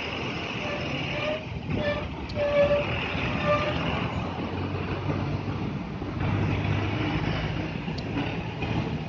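Motor vehicles running over a steady rushing noise, with four short horn toots in the first few seconds and a low engine hum growing stronger past the halfway point.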